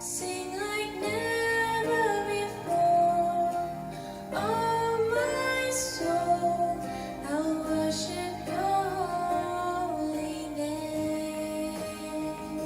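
Worship music: a woman sings a slow, held melody over guitar accompaniment.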